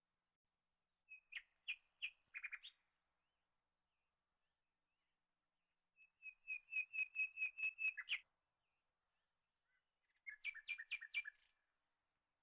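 A bird calling in three bouts of quick repeated chirps, the middle bout a rapid run of about ten notes growing louder.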